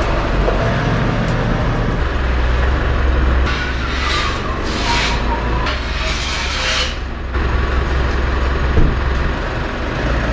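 Mitsubishi Pajero Sport's engine running steadily at low revs as the SUV is put up on ramps. There is a few seconds of hissing noise in the middle that starts and stops abruptly.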